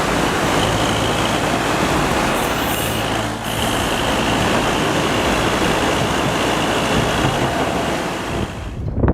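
Heavy vehicle running, a loud, steady, dense rumble and hiss, with a brief break about three and a half seconds in.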